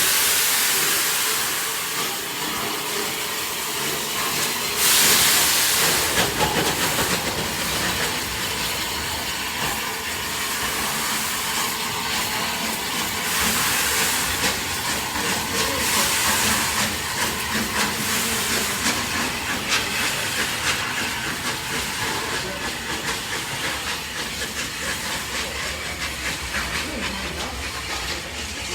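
Steam hissing from the Bulleid Pacific steam locomotive 34067 Tangmere as it shunts. The hiss is steady, with a louder gust about five seconds in and smaller swells later.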